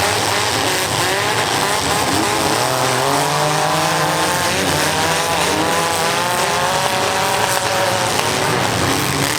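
Several small-car engines revving hard at the same time, their pitches rising and falling unevenly as the cars are driven in a mini-car demolition derby heat.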